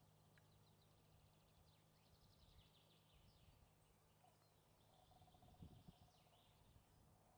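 Near silence: faint outdoor ambience with distant small birds singing in quick repeated notes and trills, and a few soft low thumps about two-thirds of the way in.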